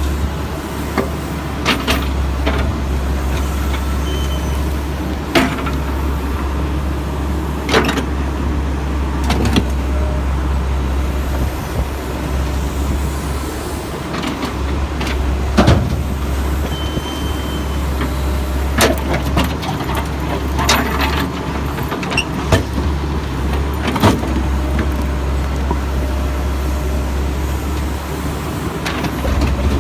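Backhoe's diesel engine running steadily under load, with scattered sharp clanks and knocks as the bucket scoops and drops broken concrete chunks into a dump truck.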